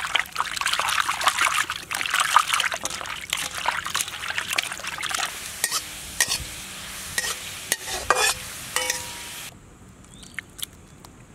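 Food being stirred and crackling in a hot pan, dense at first and thinning to scattered pops. The sound cuts off abruptly about nine and a half seconds in.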